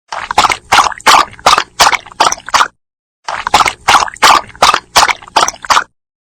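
Dog lapping water: two runs of about eight quick wet laps, roughly three a second, with a short pause between them.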